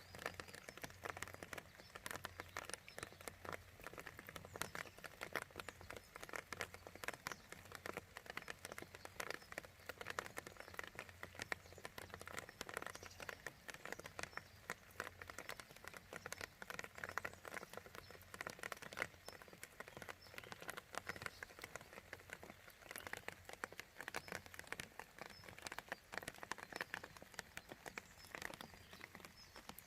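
Rain falling steadily as a dense, irregular patter of many separate drops.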